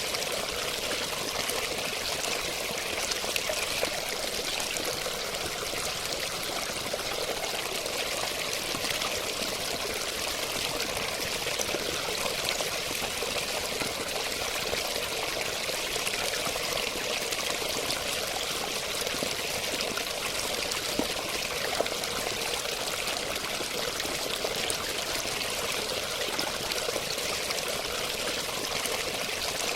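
Running water flowing steadily and evenly, a continuous splashing rush with fine droplet ticks.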